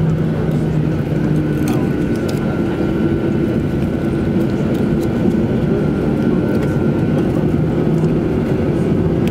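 Boeing 737-800 engines heard from inside the passenger cabin, running steadily: a constant low hum with a thin steady whine above it, its level neither rising nor falling.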